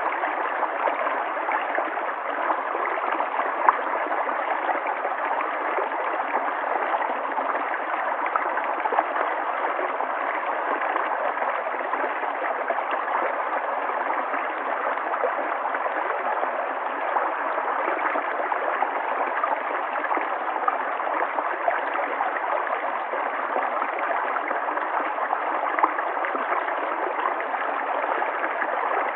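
River water flowing: a steady, unbroken rush with gurgling and small splashes here and there. It has no deep rumble and no high hiss.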